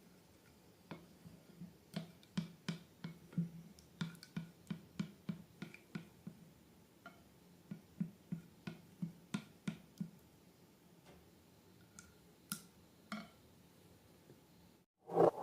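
Slime being squeezed and worked by hand, giving small wet clicks and pops, roughly two a second and sparser later on. A louder, faster series of squelches starts right at the end.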